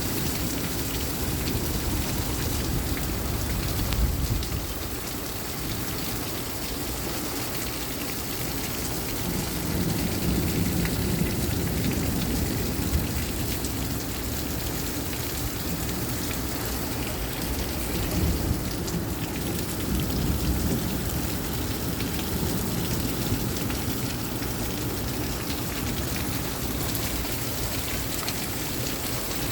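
Heavy rain pouring steadily in a severe thunderstorm, with low rumbles swelling a few times: about four seconds in, around ten seconds in and near eighteen seconds in.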